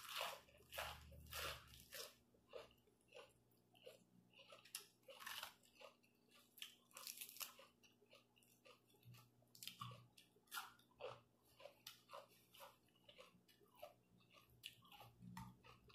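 A person biting into and chewing a crisp raw vegetable close to the microphone: a steady run of irregular wet crunches, a few a second.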